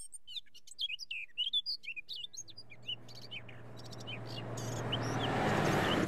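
Songbirds chirping in quick, rising and falling calls. From about two and a half seconds in, a truck's engine hum and rushing noise grow steadily louder as it approaches, while the chirps thin out.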